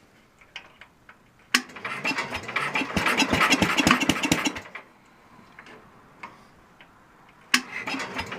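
Electric starter cranking a Super 12 hydrostatic tractor's engine. It starts with a click and turns the engine over in quick pulses for about three seconds without the engine catching. A second crank starts near the end. The engine won't fire, which the owner puts down to no spark.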